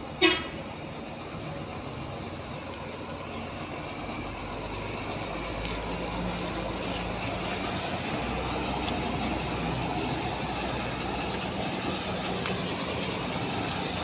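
Heavy truck's diesel engine running steadily, its rumble slowly growing louder and then holding. A short, loud sharp sound cuts in just after the start.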